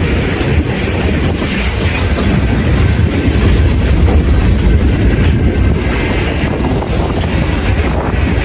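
A train passing close by: loud, steady wheel-on-rail noise.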